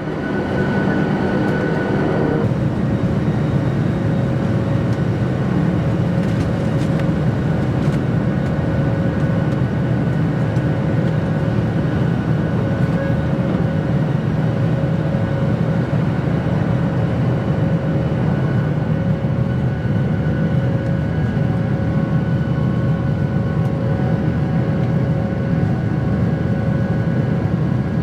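Airliner engines at takeoff power heard from inside the passenger cabin: a loud, steady rumble with a steady whine over it.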